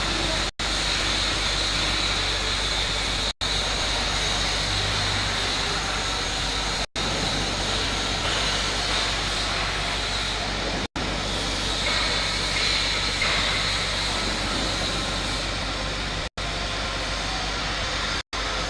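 Heavy transport truck engine running steadily, with an even, continuous noise broken by a few very brief dropouts.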